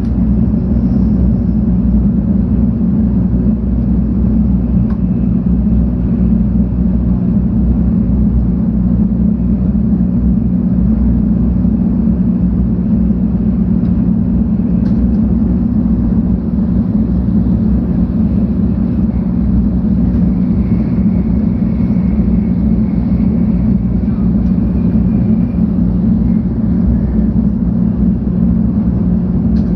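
Steady cabin rumble of a 700 Series Shinkansen car running along the line, heard from a passenger seat inside the train.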